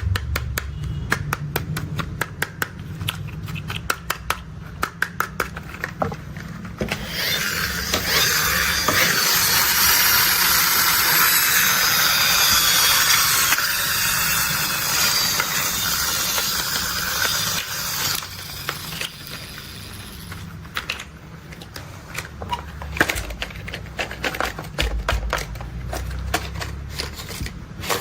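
Plastic toy construction vehicles being handled: quick taps and clicks. About seven seconds in, a steady hiss sets in and runs for roughly ten seconds, then the tapping comes back.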